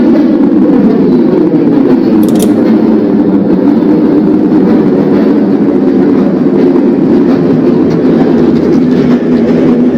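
New York City subway train running along the track with a loud, steady rumble, and a brief high-pitched metallic screech about two seconds in.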